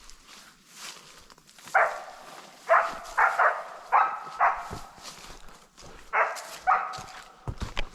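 A dog barking: about seven short barks in uneven groups, beginning about two seconds in. A few low knocks, such as footsteps, near the end.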